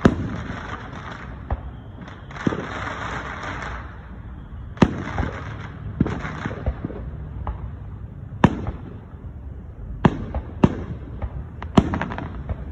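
Aerial fireworks going off overhead: about a dozen sharp bangs at irregular intervals, with two stretches of crackling hiss from bursting shells in the first four seconds.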